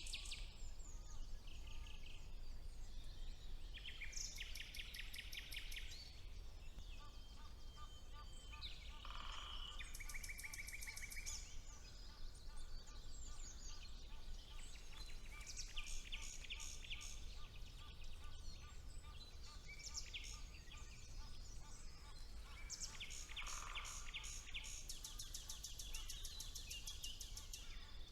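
Several songbirds singing in a spring woodland, overlapping phrases of rapid high trills and quickly repeated notes, with a slower series of lower, evenly spaced notes for a while in the middle. A faint low rumble lies under the birdsong.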